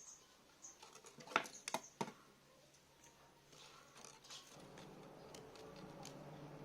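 A few sharp clicks and taps, the loudest about a second and a half in, as of small tools or parts handled on a workbench. After that a low steady hum sets in about four and a half seconds in and slowly grows.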